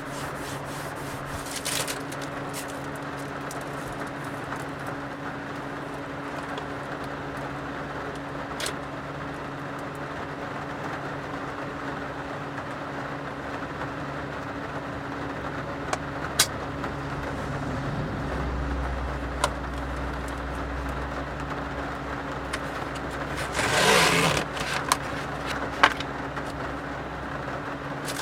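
Steady rain noise over a low, steady hum, with a few sharp clicks. A deeper rumble joins about two-thirds of the way through, and there is a louder rustle near the end.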